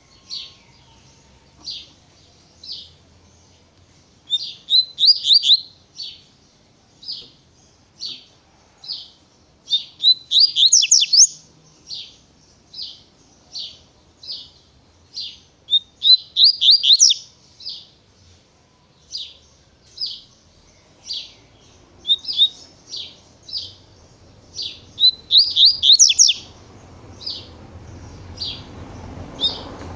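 Double-collared seedeater (coleiro) singing its 'tui-tui' song: sharp, high single notes spaced under a second apart, broken about every six seconds by a quick run of several notes.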